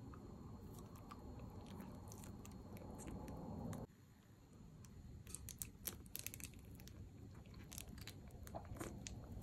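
Close-miked mouth sounds of biting and chewing soft fruit jelly candy sticks. A low muffled rumble cuts off abruptly about four seconds in, followed by a run of sharp wet clicks and crackles that are thickest just past the middle and again near the end.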